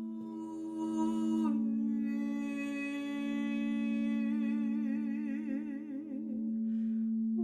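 A woman humming long held notes over a steady drone tone; her pitch drops about a second and a half in, wavers with a slow vibrato from about halfway, and she stops near the end while the drone carries on.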